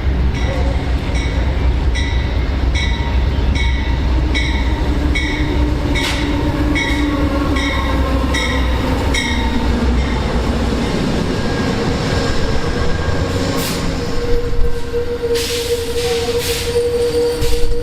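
Amtrak passenger train passing: a steady rumble with evenly spaced clicks of wheels over rail joints, about two to three a second, easing after about ten seconds. In the last few seconds a steady high tone sets in, with a few short hissing bursts.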